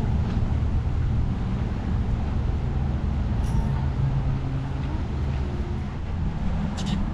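Low, steady engine rumble with wind buffeting the microphone.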